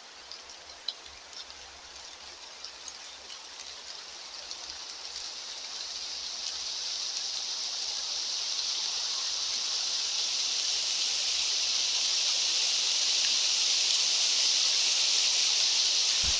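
Mountain wind rushing steadily, swelling gradually louder, with a few faint ticks in the first few seconds.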